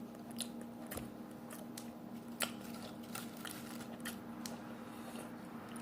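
A person chewing food with the mouth close to the microphone: scattered short, wet clicks and smacks at irregular intervals, over a steady low hum.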